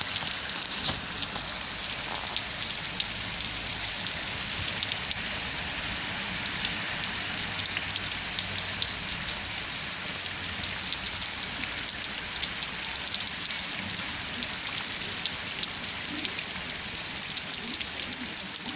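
Steady rain falling on a hard surface: a dense spread of small drop impacts, with one louder drop about a second in.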